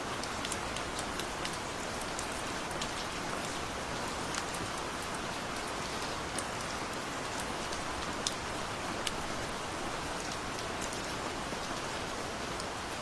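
Steady gentle rain: an even hiss of falling rain with many small drops ticking on a surface scattered throughout.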